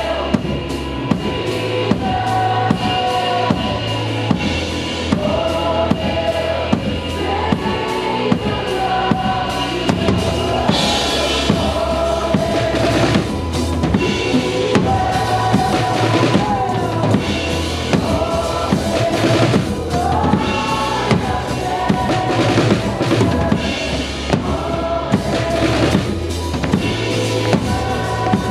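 Drum kit played steadily with kick and snare, loud in the mix, under a full band and singing, as a worship song.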